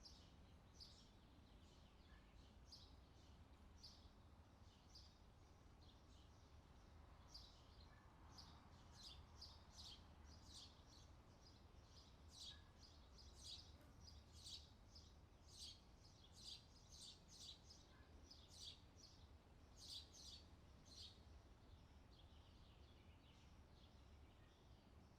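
Faint birdsong: a bird repeating short, high chirps about once or twice a second, busiest in the middle, over a steady low hum.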